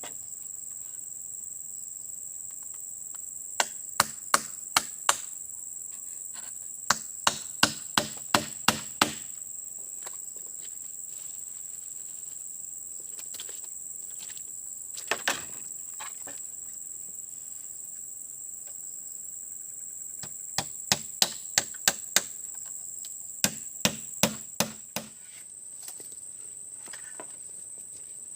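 Steady high-pitched insect chirring throughout, overlaid by bursts of sharp chopping knocks, five to eight strikes in quick succession, like a blade hacking at wood.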